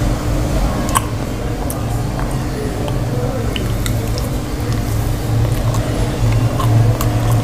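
Close-up eating sounds of potato and cauliflower curry with roti eaten by hand: wet, squishy chewing with small sharp clicks of the mouth and fingers, over a steady low hum.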